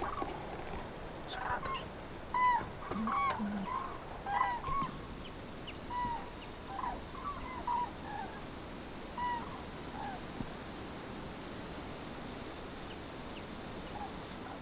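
Birds calling in a beech wood: many short, arched call notes, thickest in the first ten seconds and thinning out after, over a steady hiss.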